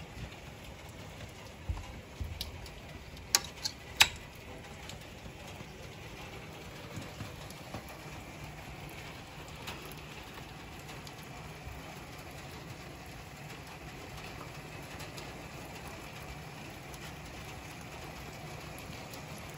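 Heavy thunderstorm rain falling steadily, heard as an even hiss, with a few sharp clicks and knocks about two to four seconds in.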